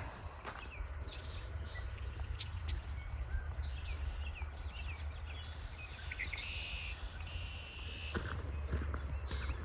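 Spring birdsong around a marsh: several birds singing at once, with quick repeated notes and buzzy trills, over a steady low rumble. A few footsteps near the end.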